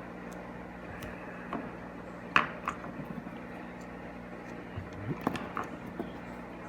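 Small clicks and taps of the parts of an air-ride manual switch being handled while its spring is fitted back in, the sharpest about two and a half seconds in and a cluster around five seconds, over a steady low hum.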